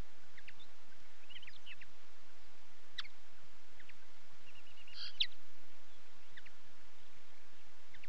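Small wild birds giving short, high chirps and calls at irregular intervals over a steady background hiss, with the loudest call a little past halfway.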